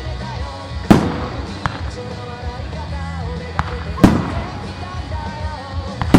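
Aerial firework shells bursting with loud bangs: one about a second in, another about four seconds in and a third right at the end, with smaller cracks in between. Music plays steadily underneath.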